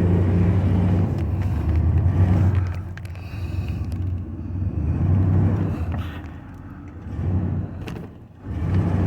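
Low, uneven rumble of a car in motion heard from inside, swelling and easing several times with a brief lull about eight seconds in.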